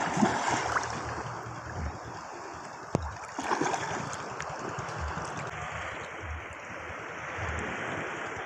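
Seawater sloshing and small waves washing in the shallows, with wind gusting on the microphone and a few sharp clicks.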